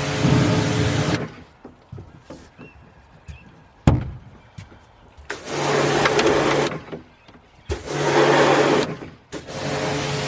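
Electric pressure washer spraying water, its motor hum and the jet starting and stopping with the trigger: a long spray, a pause with a sharp knock about four seconds in, two short bursts, then steady spraying again near the end.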